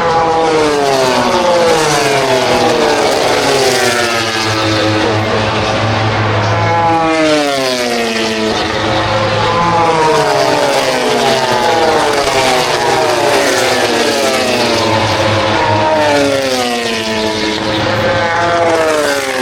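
MotoGP racing motorcycles going past one after another, their four-cylinder engines loud and high-revving. Each engine's pitch falls as it passes, with a new one every few seconds.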